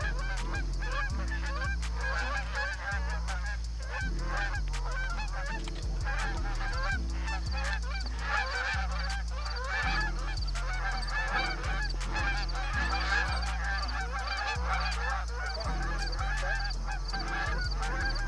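A flock of Canada geese honking, many birds calling over one another without a break.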